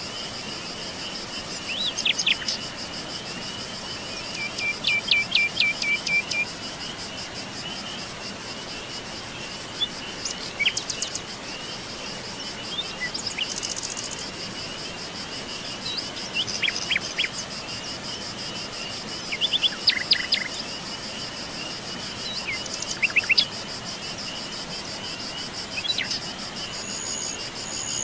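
Wild songbirds calling and singing in short phrases every few seconds, one giving a quick run of about seven repeated notes, over a continuous high, pulsing trill of insects.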